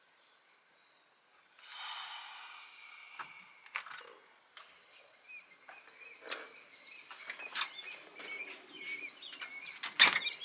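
A small songbird chirping over and over, a short high note repeated about two to three times a second, with scattered clicks. Before it starts there is a brief hiss lasting about two seconds.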